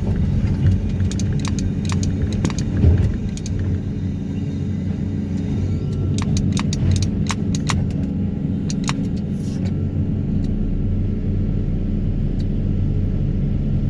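Excavator diesel engine running steadily under a vibro hammer rig, with scattered sharp clicks and rattles; a deeper steady hum sets in about ten seconds in.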